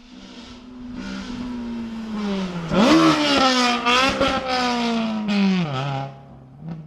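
Rally car engine revving hard as the car comes through. The pitch climbs steeply, dips once for a gear change about four seconds in, then falls away near the end as the car lifts off.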